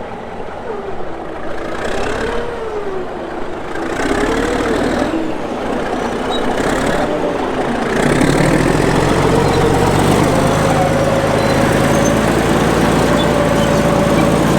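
Caterpillar D8H bulldozer's diesel engine working hard, its pitch wandering up and down, then louder and steady from about eight seconds in.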